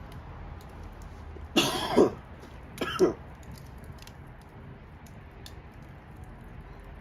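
A person coughing twice, about a second apart, over faint scattered crackles from a wood campfire.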